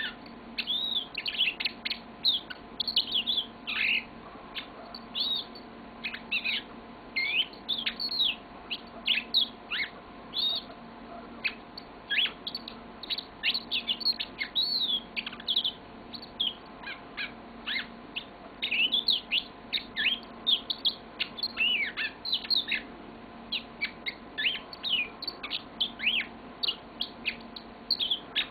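Yellow-fronted canary singing a long, nearly unbroken song of quick, high chirps and downward-sweeping notes, with only brief pauses.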